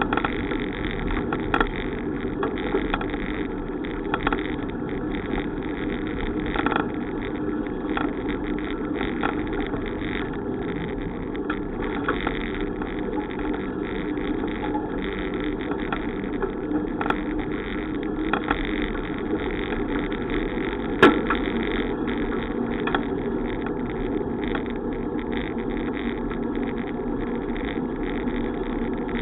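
Bicycle ride noise: a steady rush of tyre rolling and wind, with scattered light clicks and rattles and one sharp knock about 21 seconds in.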